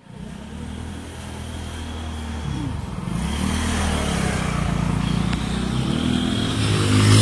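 An engine running, its pitch shifting a little and growing louder toward the end.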